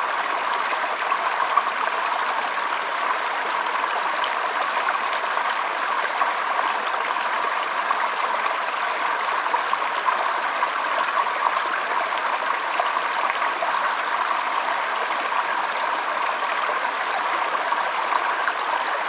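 Water flowing steadily in a stream, an even babbling rush with no breaks.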